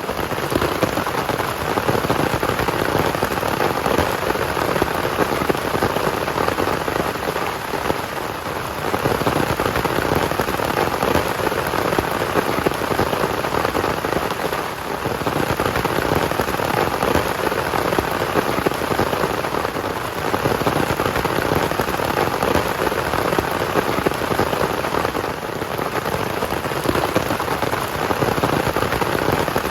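Heavy rain falling steadily, a dense, even hiss of drops that comes in abruptly at the start and holds loud throughout.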